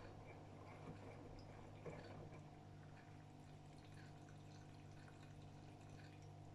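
AEG Öko-Lavamat washing machine mid-wash, heard faintly: water dripping and trickling inside the drum over a steady low hum.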